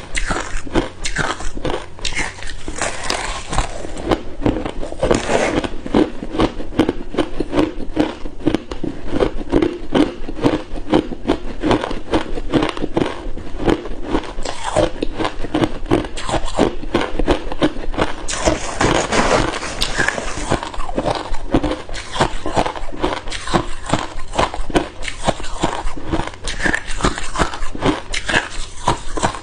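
Hard ice cubes being bitten and chewed, a continuous run of dense, rapid crunches and cracks.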